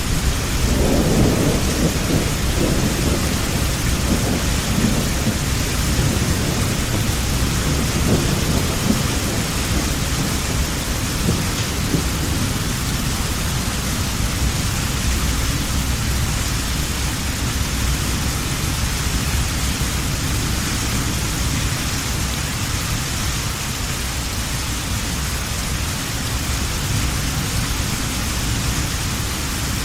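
Heavy rain falling steadily, with a long rumble of thunder at the start that fades away over roughly the first ten seconds.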